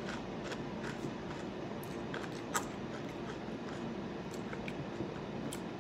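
A person chewing a mouthful of corn flakes with milk: faint, irregular crunching clicks over a steady low hiss, one a little louder about two and a half seconds in.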